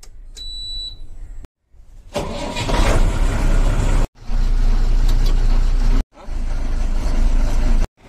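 Short cuts of a heavy truck's diesel engine running, each a couple of seconds long, broken off abruptly by brief silent gaps. A short high beep sounds just before the first cut.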